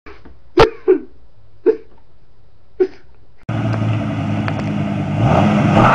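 Four short sharp bursts over a quiet background, then, from about three and a half seconds in, a truck engine running at high revs with the hiss of spinning tyres during a burnout, its pitch rising slightly near the end.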